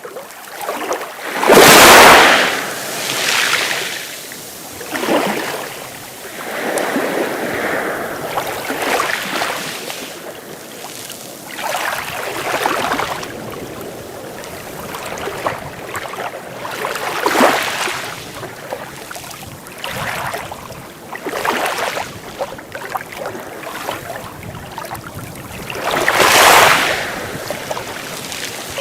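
Sea waves breaking and washing up on a beach, one surge every few seconds. The loudest breaks come about two seconds in and again near the end.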